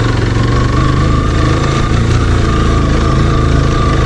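Motorcycle engine running steadily at low speed while the bike is ridden along a rough dirt track, a constant low drone with a steady high whine over it.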